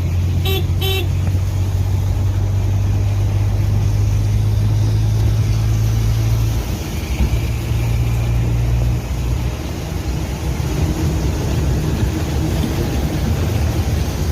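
A vehicle's engine runs with a steady low drone and a rumble, heard from on board. Two short horn toots sound about half a second in.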